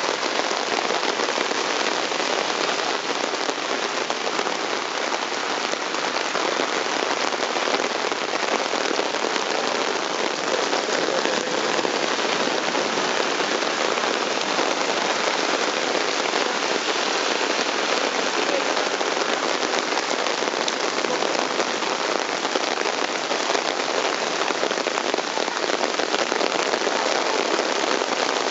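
Heavy thunderstorm rain falling hard and steadily, an unbroken hiss of countless drops striking the ground.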